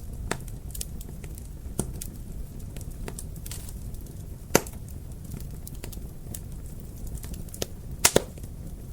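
Wood fire crackling over a steady low rumble, with sharp pops scattered through: the loudest about four and a half seconds in, and two in quick succession near the end.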